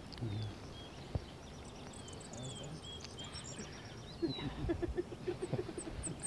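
Small birds chirping: a string of short, high, falling chirps over faint outdoor background noise.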